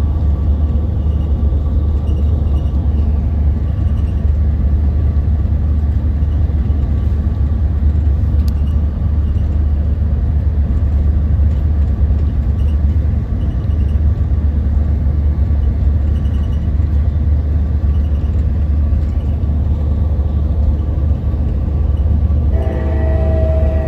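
Amtrak Capitol Corridor passenger train running at speed, heard on board: a steady, loud low rumble of the car on the rails. Near the end a sustained multi-pitched tone starts suddenly.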